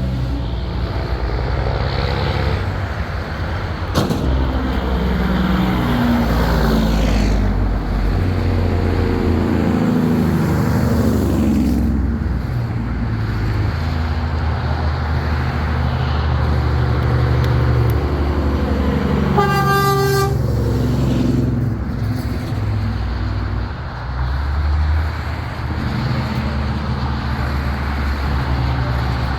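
Big-rig trucks driving past one after another, their diesel engines rumbling and dropping in pitch as each goes by. One truck sounds its horn in a single blast of about a second, about two-thirds of the way through.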